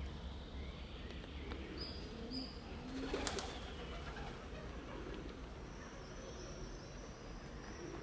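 Birds calling: two short high chirps about two seconds in and a low, coo-like note just after, over a steady low background hum. A brief loud crackle comes about three seconds in.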